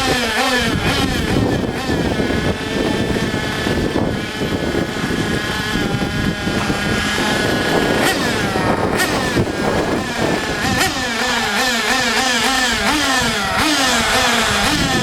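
Nitro RC cars and trucks running on a dirt track, their small glow engines revving up and down over one another. A couple of sharp knocks come about halfway through.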